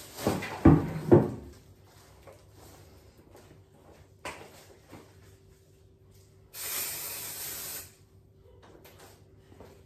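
Household items knocked and clattered while being handled, the two loudest knocks about a second in. Later a cleaning spray hisses steadily for just over a second.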